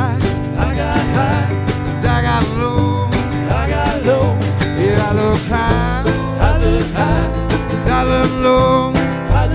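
Live band playing a country-rock song with guitar, bass and drums, and a melodic line that bends in pitch over the top.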